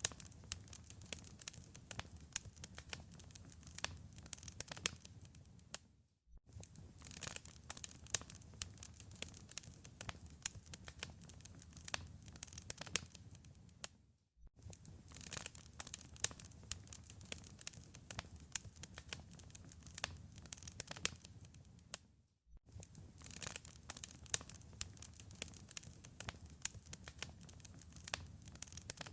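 Wood fire crackling: irregular sharp pops and snaps over a low rumble of the flames. The sound comes in stretches of about eight seconds, each broken off by a brief dropout to silence before the crackling starts again.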